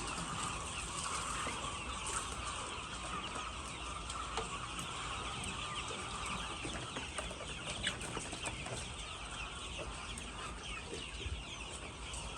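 A large flock of chickens calling all at once: a steady, dense chatter of overlapping clucks and short calls with no break.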